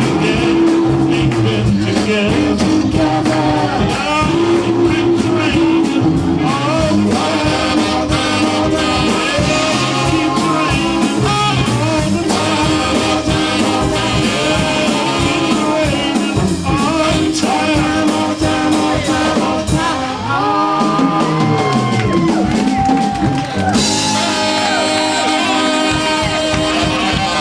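Doo-wop vocal group singing live with band and guitar backing, heard through an out-of-calibration PA system that distorts the voices. Long held notes come in the last few seconds.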